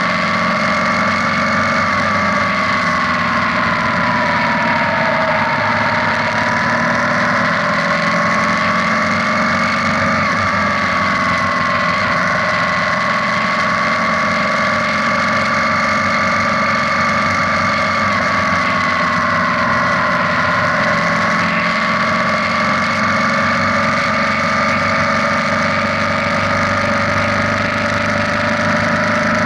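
BMW motorcycle's boxer-twin engine running at a steady cruise inside a road tunnel, mixed with road and wind noise. Its engine note sags slightly twice and picks back up.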